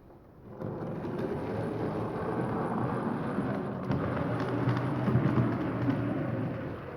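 HO scale model train running along the track: a steady rumble that starts about half a second in and eases near the end.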